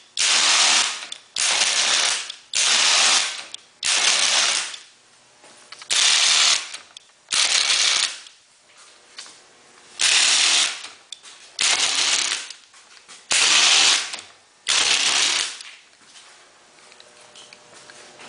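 Modified 5,000-pound electric winch driving motorcycle landing-gear stabilizers, its motor and gears running in short bursts of about a second, about ten times with brief pauses between, as the gear is cycled. It stops near the end.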